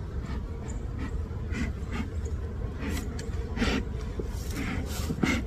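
Bee smoker's bellows being pumped, giving a string of short, breathy puffs of air and smoke.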